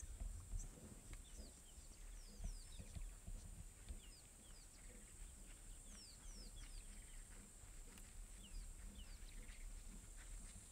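Faint birdsong in the bush: many short, quick downward-sliding chirps scattered throughout, over a steady high hiss and a low rumble.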